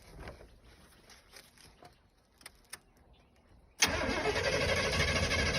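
A few faint clicks, then about four seconds in a car's starter motor suddenly begins cranking the engine steadily without it catching: a no-start.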